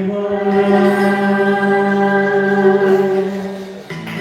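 Singing: a voice holds one long, steady note that breaks off just before the end.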